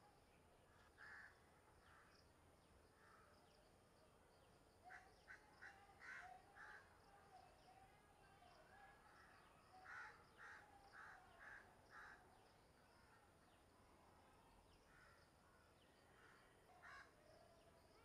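Faint bird calls: short calls repeated in quick runs of four or five, twice in the middle, with single calls scattered between.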